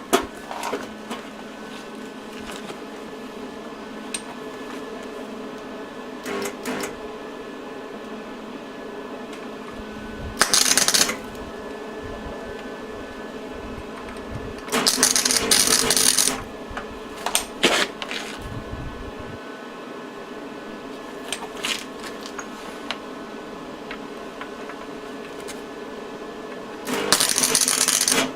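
Arc welding on an e-bike hub motor clutch: a few short welding bursts of about a second each, plus some brief clicks, over a steady hum.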